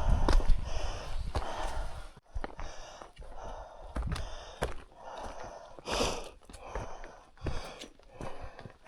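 A hiker breathing hard in a steady rhythm of breaths while walking, with sharp clicks of footsteps. The sound breaks off abruptly about two seconds in, then the breathing goes on.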